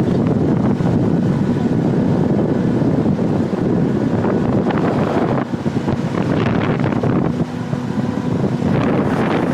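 Wind buffeting the microphone on a moving boat, over the steady noise of the boat's motor and the water.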